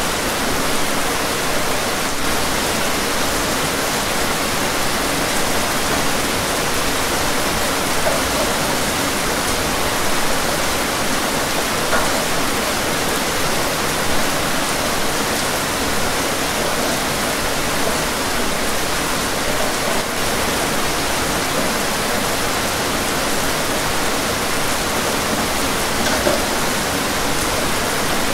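Steady rain, a dense, even hiss with a few slightly louder drops standing out now and then.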